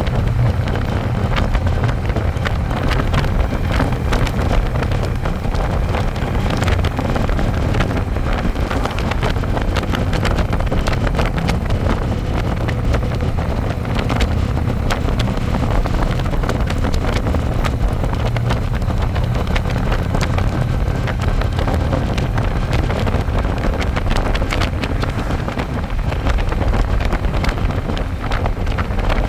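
Wind buffeting the microphone over the steady running of a Harley-Davidson Electra Glide's V-twin engine at cruising speed, heard from the back seat of the moving motorcycle.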